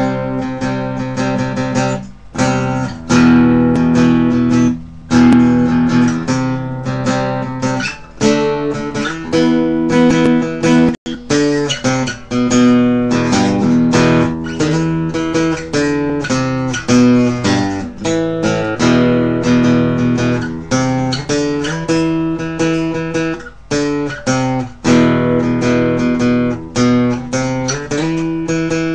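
Guitar music: plucked notes and chords played continuously, with a split-second break about eleven seconds in.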